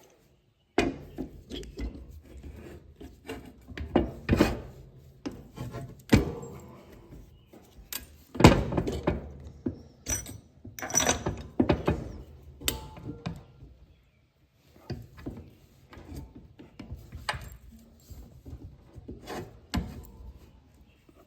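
Parts of an old Delco shock absorber being handled and fitted together: irregular clinks, knocks and rubbing of metal pieces, with a short lull about two thirds of the way through.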